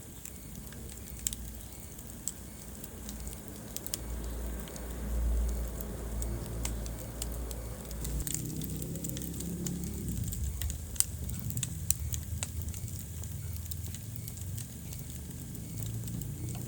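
Wood fire burning in a fireplace: irregular sharp crackles and pops over a low, steady rumble of flame.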